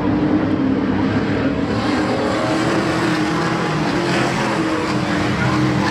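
Several race trucks' engines running together on track, their overlapping pitches making a steady, loud engine noise.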